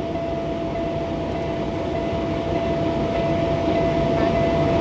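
Semi-truck tractor's diesel engine idling, heard from inside the cab while the air system builds pressure: a steady drone with a constant whine over it, growing slightly louder.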